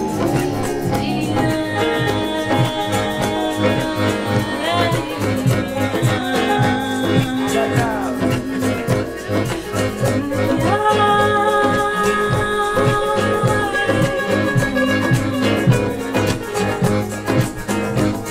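A band playing an upbeat song with a steady beat and shaker. Long held notes sit over it, with one note sliding down about seven seconds in.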